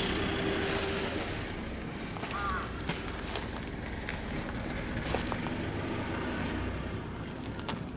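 Oak and beech firewood burning in a barbecue grill, crackling with scattered sharp pops over a low steady rumble.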